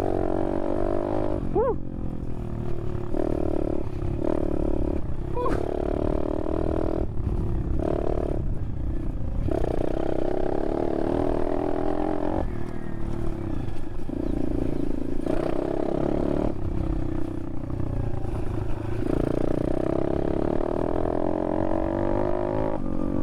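Apollo RFZ 125cc pit bike's single-cylinder four-stroke engine ridden hard, its pitch climbing and dropping back in steps again and again as it is revved and shifted through the gears. The rider shouts 'woo' about a second and a half in.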